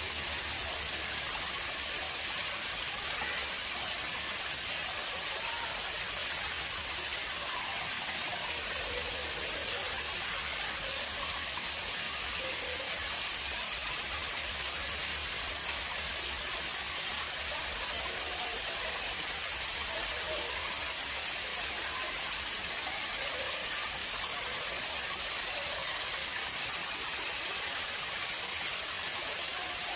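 Water flowing steadily into a man-made pond, a continuous, unchanging rush of falling and splashing water.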